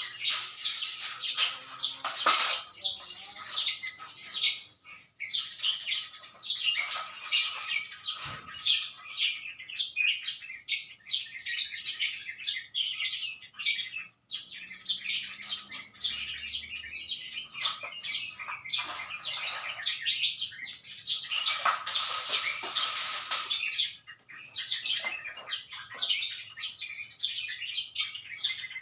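Small birds chirping: a rapid, dense stream of short, high calls with a few brief pauses.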